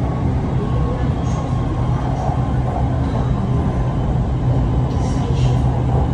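Electric passenger train running along an elevated track, heard from inside the carriage: a steady low rumble with a faint, steady high whine.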